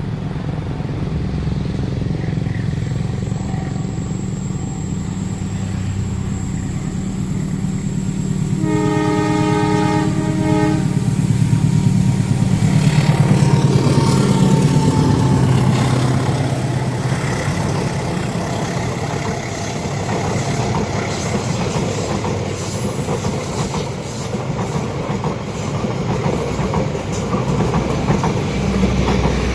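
Diesel locomotive-hauled train approaching with its engine running, sounding a horn blast of about two seconds. The train then passes close by, its loudest moment a few seconds after the horn, and the wheels on the rails keep running as the carriages go by.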